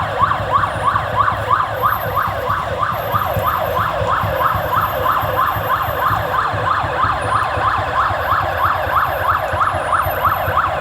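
Emergency-vehicle siren in fast yelp mode, a quick rising-and-falling wail repeating about four times a second, with a low rumble underneath.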